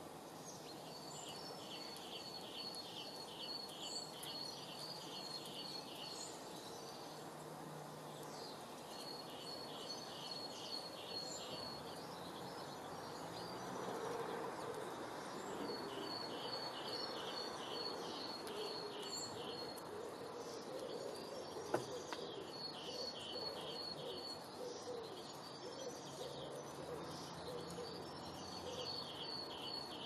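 A songbird repeating a fast trill of evenly spaced notes, five phrases each about two to three seconds long, over a steady outdoor background hiss.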